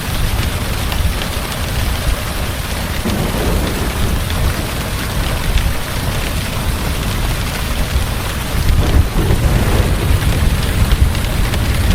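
Heavy rain falling steadily, with a continuous low rumble of thunder underneath that swells a little near the end.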